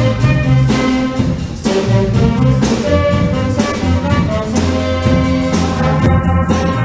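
Middle school band playing live: brass and woodwinds holding sustained chords over a steady percussion beat.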